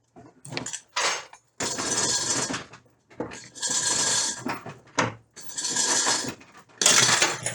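Metal scraping and clanking in four rough strokes about a second long each, with knocks between them.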